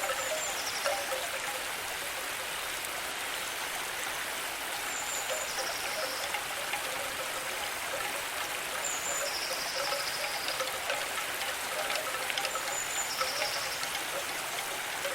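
Steady running water like a small stream. A short high chirp followed by a brief buzzing trill repeats about every four seconds.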